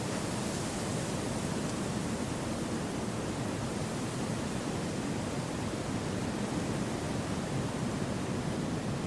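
Wind rushing through a forest, a steady, even whoosh with no gusts or other sounds standing out.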